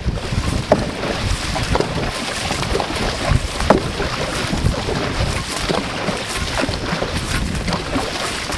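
Dragon boat under way: paddles splashing and knocking in the water at irregular moments, over steady wind buffeting the microphone.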